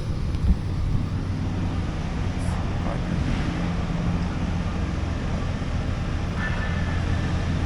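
Semi truck's diesel engine running steadily, with a single sharp thump about half a second in.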